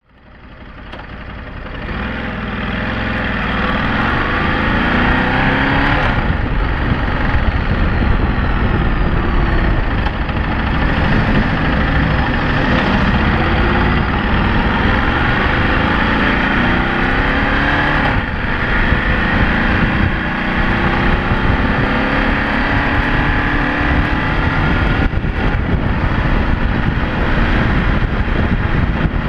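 Ducati DesertX's 937 cc V-twin engine running under way, rising and falling in pitch as the bike speeds up and slows down. It fades in over the first few seconds. The bike is still in its running-in period.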